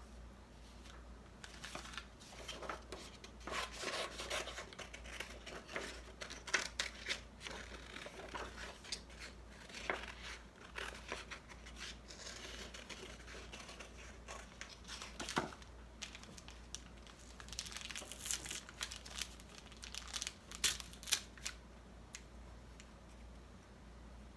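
Scissors cutting paper, with paper rustling and crinkling as it is handled: irregular snips and rustles, a few sharper ones standing out, over a faint low hum.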